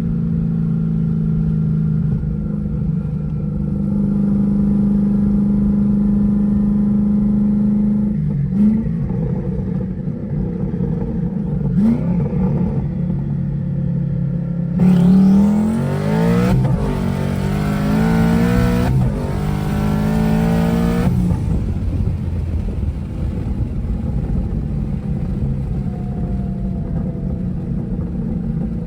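Twin-turbocharged Gen 1 Coyote V8 of a 2011 Mustang GT running steadily at low revs, with a couple of short sharp sounds, then accelerating hard for about six seconds with the pitch rising and dropping back twice at the gear shifts, before settling back to steady running.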